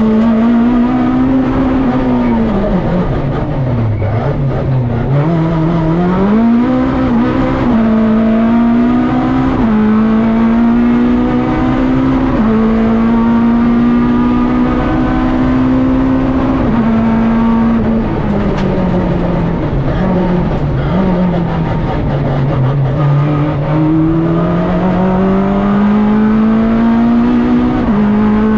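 Peugeot 106 rally car's four-cylinder engine heard from inside the cabin under hard driving. It drops away twice as the car slows, then climbs back through the gears with a short dip in pitch at each upshift.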